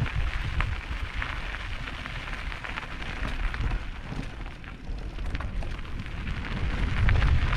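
Mountain bike tyres rolling and crunching over a loose, rocky dirt trail, with many small clicks and rattles of stones and bike, over a low buffeting rumble that swells near the end.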